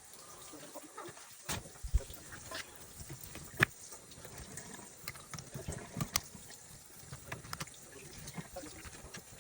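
A knife cutting the head off a freshly gutted trout: a few sharp clicks and knocks as the blade works through the backbone and hits the cutting surface, with faint wet handling sounds.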